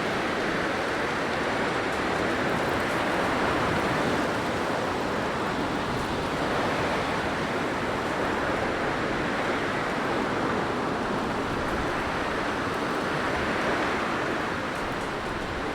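Blizzard wind blowing steadily, a dense rushing that swells and eases slowly in long gusts every few seconds.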